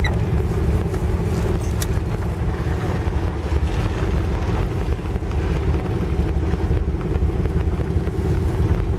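Classic Ford Thunderbird on the move: a steady low engine and road rumble, with wind noise on the microphone.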